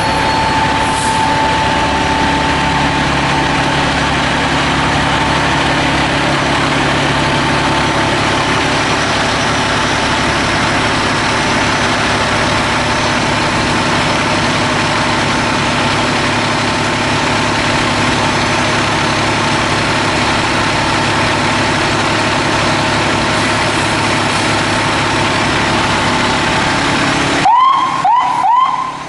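Fire engine's diesel engine running steadily and loudly up close. Near the end the noise drops away suddenly and the electronic siren gives a few short rising yelps.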